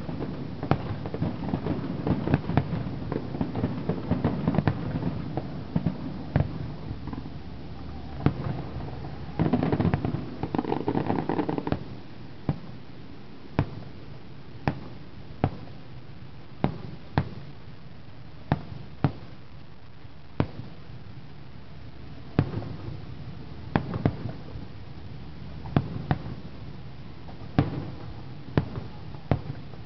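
Aerial firework shells bursting in sharp bangs. For the first dozen seconds the bangs come thick over a continuous rumble, heaviest just before it ends; after that they come singly, about one a second.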